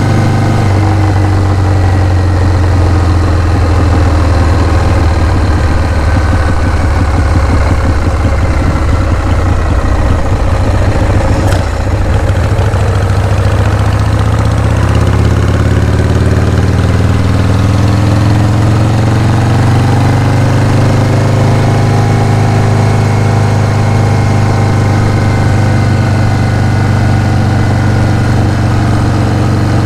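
Harley-Davidson Shovelhead V-twin engine idling, with one sharp click about eleven seconds in. Its idle speed climbs gradually over the next several seconds, then holds steady.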